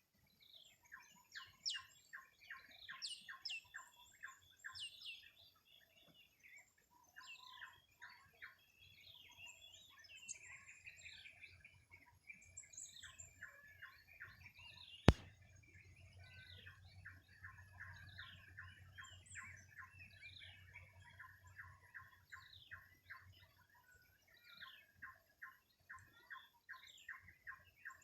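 Birds chirping and calling, with rapid runs of short repeated chirps and downward-sweeping calls overlapping. A single sharp click about halfway through.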